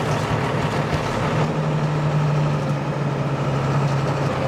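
Car engine running steadily while driving, a low hum over a steady rushing noise.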